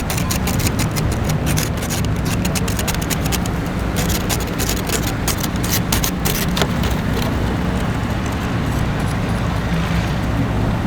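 Steady low rumble of city street traffic, with rapid irregular crackling over the first seven seconds or so that then fades.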